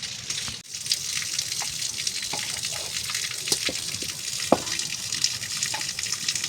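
Water running steadily with a rushing hiss, broken by scattered small splashes and clicks.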